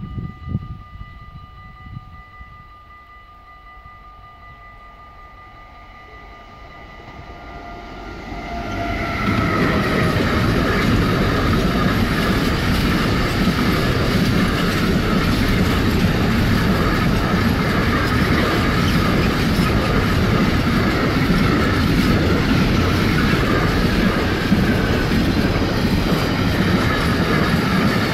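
A long freight train of container wagons passing close by: steady rumble and clickety-clack of wagon wheels on the rails, which swells to full loudness about nine seconds in and then holds. Before that, the approaching train is heard more faintly, with a few steady high tones that dip slightly in pitch as it arrives.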